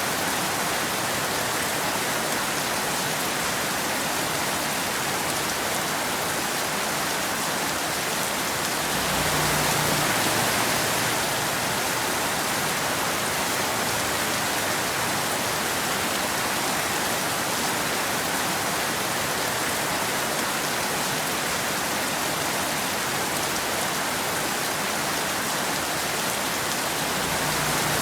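Steady rain falling, a dense, even hiss. It swells briefly with a deeper rumble about a third of the way through and again near the end.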